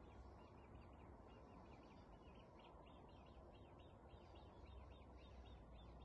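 Near silence: faint, rapidly repeated small bird chirps at several a second, over a low wind rumble on the microphone.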